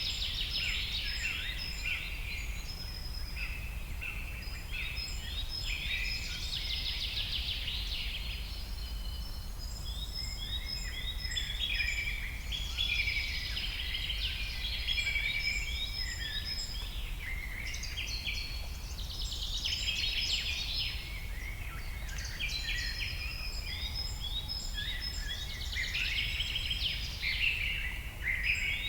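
A dense chorus of many birds chirping and trilling, overlapping without pause, over a steady low rumble.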